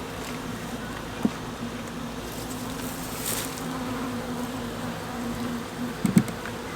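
Honeybees buzzing steadily in a low hum around an opened nuc as its frames are moved into a larger hive box, with a couple of sharp knocks from the wooden frames and box.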